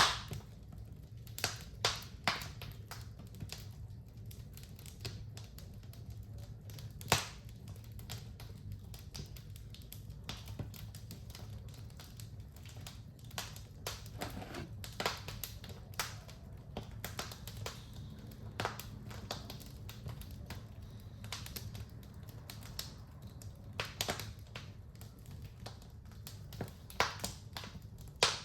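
Wood fire burning in a fireplace: irregular sharp crackles and pops over a low steady rumble, with a louder pop about seven seconds in.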